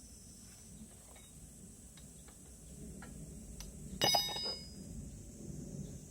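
A few light clicks and taps, then about four seconds in a metal object clanks once and rings briefly.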